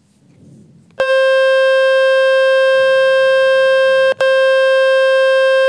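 Loud, steady electronic buzz tone from the Fix My Speaker website, played to shake water and dust out of a Xiaomi 11i phone's speaker. It starts about a second in, breaks off for an instant near the middle, then carries on.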